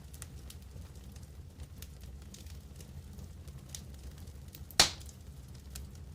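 Wood campfire crackling: scattered small snaps over a low, steady rumble, with one loud sharp pop near the end.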